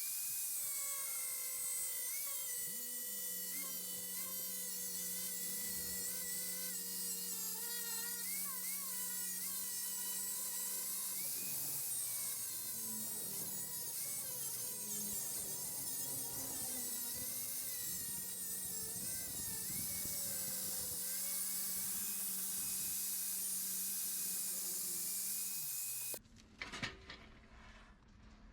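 Electric power tool running continuously on steel plate, its whine dipping in pitch now and then as it is loaded. It cuts off abruptly near the end, followed by a couple of sharp knocks.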